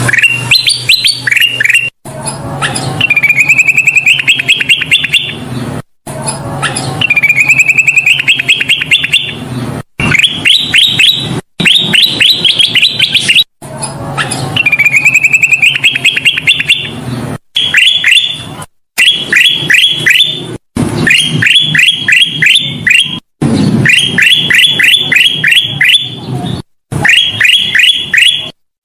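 Kutilang emas (a bulbul) singing loudly and without let-up: phrases alternating between a buzzy rising trill and rapid runs of short high notes that each sweep downward, several a second. The phrases are broken by abrupt short gaps every couple of seconds.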